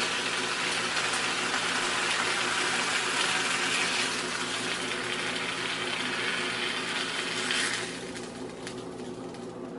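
Ham slices sizzling in a hot frying pan. The sizzle drops away abruptly near the end as the slices are lifted out of the pan with tongs.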